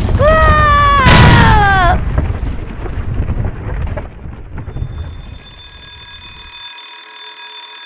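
A cartoon character's cry, "Ah!", falling in pitch over a loud low rumbling crash sound effect that fades out over several seconds. About halfway through, a steady high-pitched electronic ringing tone comes in and holds.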